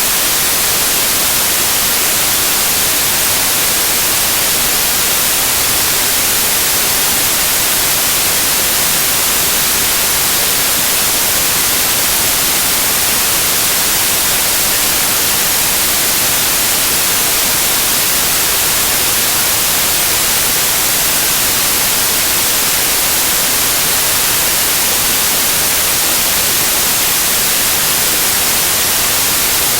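Loud, steady white noise: an even, unchanging hiss that is brightest in the high end.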